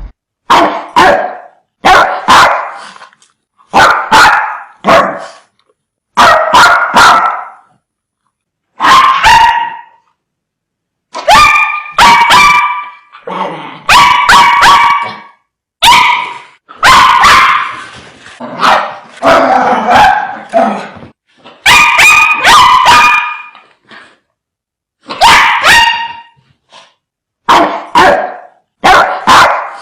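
Dogs barking fiercely in quick volleys of two or three loud barks, a volley every second or two, with gaps of silence between.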